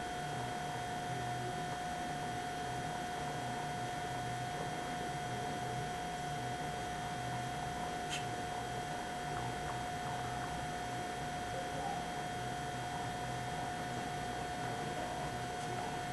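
Steady electrical hum with a constant mid-pitched whine and a few fainter high tones over a hiss, unchanging throughout.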